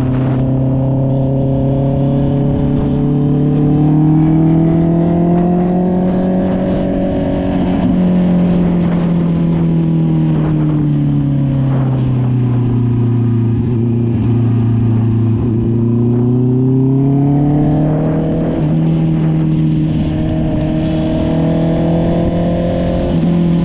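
Honda CB650R's inline-four engine running through an SC Project aftermarket exhaust while riding at a fairly steady pace. Engine speed rises gently a few seconds in, eases down slowly, climbs again about two-thirds of the way through, then holds steady.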